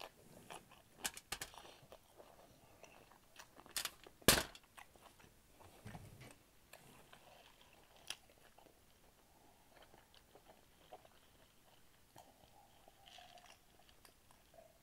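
A person chewing food close to the microphone, with scattered wet mouth clicks; the loudest sharp click comes about four seconds in.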